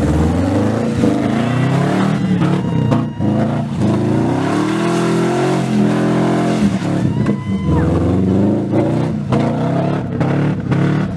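Subaru Legacy Outback's EJ22 2.2-litre flat-four, on unequal-length headers with the axle-back exhaust removed, revving up and down repeatedly as the car is drifted on snow. The engine note drops briefly about 3 seconds in, then climbs and falls several more times.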